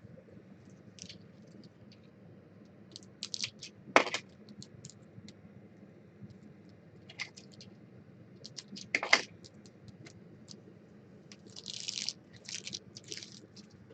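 Trading-card boxes and wrappers being handled: scattered small clicks and taps, a sharper knock about four seconds in and again about nine seconds in, and a crinkling rustle near the end.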